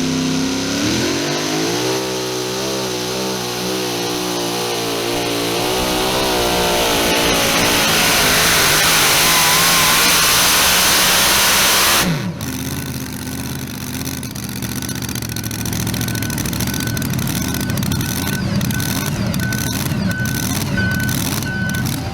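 Supercharged two-wheel-drive pulling truck's engine at full throttle under load, its pitch rising over the first two seconds and then wavering up and down as it pulls, ending in a loud rush that cuts off suddenly about halfway through. A lower engine rumble follows, with a short beep repeating steadily near the end.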